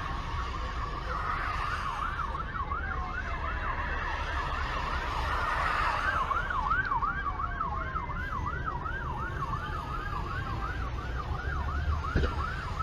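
Emergency vehicle siren sounding in a fast rising-and-falling yelp, about three cycles a second, over a steady low road and engine rumble.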